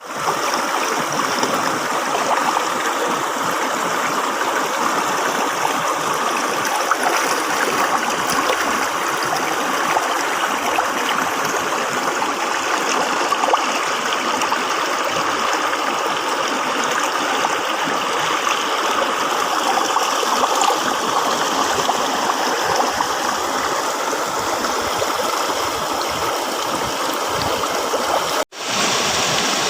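River water flowing: a steady rushing and gurgling. It cuts out for a moment near the end, then carries on unchanged.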